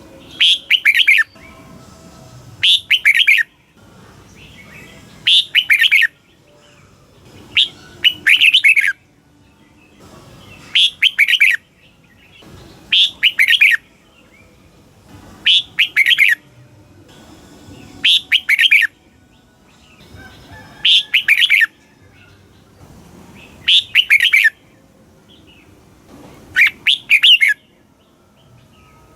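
Red-whiskered bulbul singing: short, loud, warbling phrases of several quick notes, repeated about every two and a half to three seconds.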